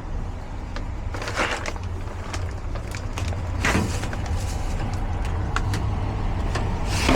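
Furnace blower fan running with a steady low hum, with short scrapes and rustles from the air filter being handled.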